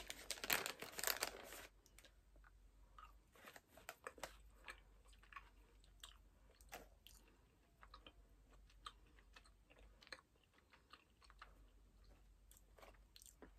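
Close-up chewing of Sour Patch Kids peach gummy candies: faint, irregular small wet clicks and smacks of the mouth. It opens with about a second and a half of louder rustling as the candy bag is handled.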